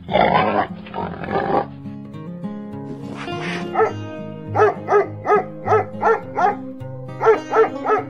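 Dog barking in a quick run of short, evenly spaced barks, about two or three a second, starting about four seconds in. Before it come a couple of short noisy animal calls. Background music plays underneath throughout.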